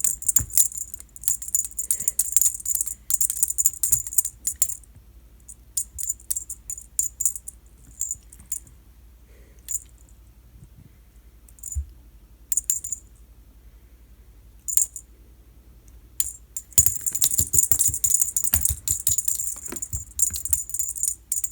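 A cat toy jingling and rattling in quick bursts as the cat bats and grabs at it. The bursts are busy in the first few seconds, scattered through the middle and busy again near the end.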